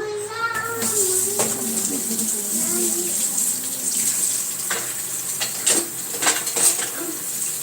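Steady rush of running or splashing water, with several sharp knocks scattered through it, the loudest about six to seven seconds in.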